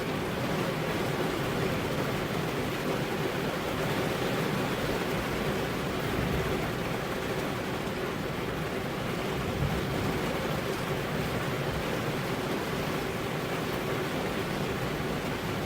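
Steady rainfall, an even, constant hiss with no separate drops or breaks.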